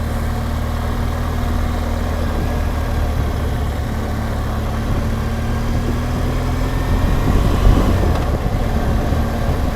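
BMW R1200GSA's boxer-twin engine running steadily as the motorcycle rides along, with a brief low thump about three-quarters of the way through.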